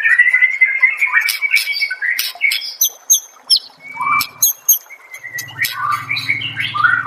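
Songbird, a white-rumped shama (murai batu), singing a fast, varied song of rising whistles and quick chirps, with a low buzzing rattle in the second half.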